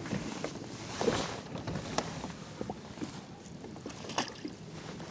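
Water sloshing against a kayak hull, with scattered sharp knocks and clicks of handling on the boat.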